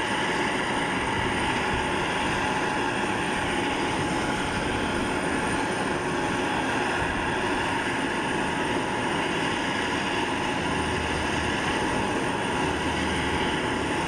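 Steady jet turbine noise with a constant high whine, running unchanged without a break.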